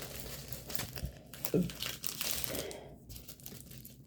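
Plastic packaging of a diamond painting kit crinkling and rustling as it is handled and opened, with many small irregular crackles.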